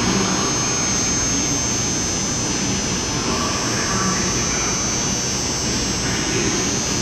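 Steady running noise of a passenger train, an even roar with a thin, high steady tone above it.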